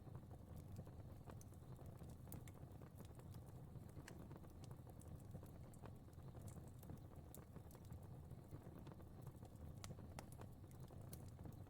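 Fire crackling faintly: a low steady rumble of burning with scattered, irregular sharp pops and snaps.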